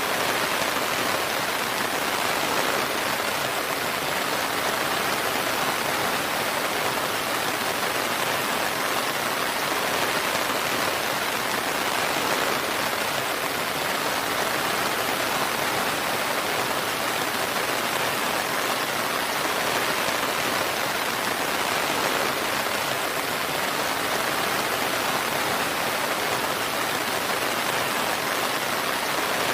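Steady rain falling, an even dense hiss with no thunder.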